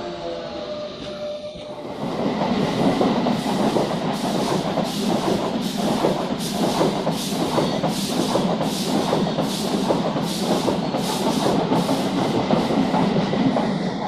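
Renfe train passing at speed, its wheels clacking over the rail joints about twice a second; the sound swells about two seconds in and drops away suddenly near the end as the train goes by.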